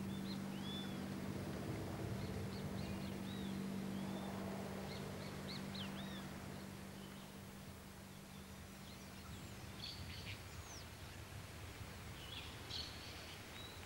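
Birds calling with short, arched chirps over a faint outdoor ambience, with a steady low hum that stops about ten seconds in.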